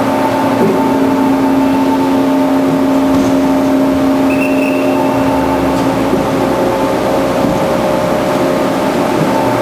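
Band saw running with a steady, even hum, with a brief faint higher whine about halfway through.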